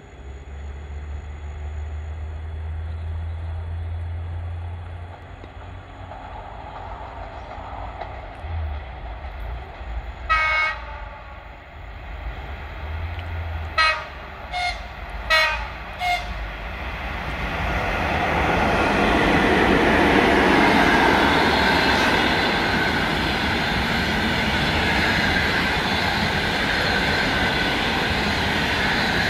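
A Škoda-built ChS7 electric locomotive sounds its horn: one blast about ten seconds in, then four short blasts a few seconds later. The passenger train then runs by, its rumble and wheel clatter swelling to a steady loud rush.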